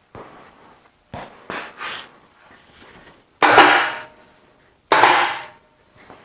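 Two loud metallic clangs about a second and a half apart, each ringing briefly, after a few lighter knocks: metal striking metal while the Allis-Chalmers C tractor engine is worked loose from its bell housing.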